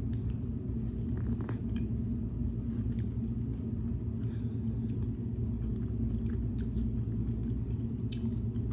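A steady low rumble, with faint scattered clicks and crunches of someone biting into and chewing corn on the cob.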